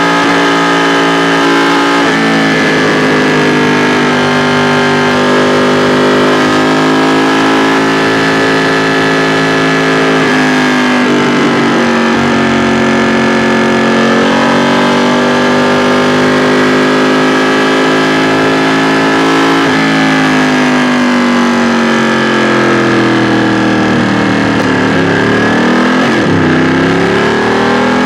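2016 Ducati XDiavel S's 1262 cc L-twin engine and exhaust running under way. The engine's pitch drops sharply about two, ten and twenty seconds in, holds steady in between, and dips and climbs again near the end as the throttle is rolled off and opened.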